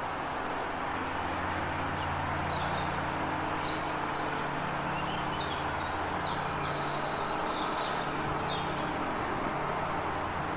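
Small birds chirping in quick, high, short notes, a run of calls through the middle, over a steady low mechanical hum.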